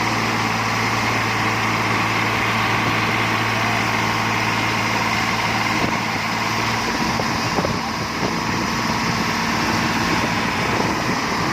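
Tractor engine running steadily with a low drone; about seven seconds in the steady note breaks up into a rougher, more uneven engine sound.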